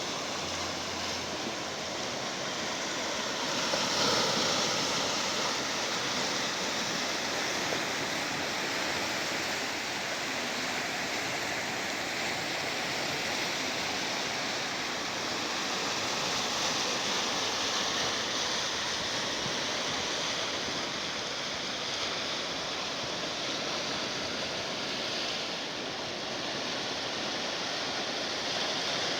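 Sea surf washing against the shore, a steady rush of water noise that swells slightly about four seconds in.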